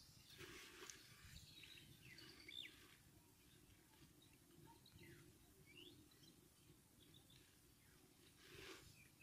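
Faint ambience with scattered short bird chirps and two soft rustles, one about half a second in and one near the end.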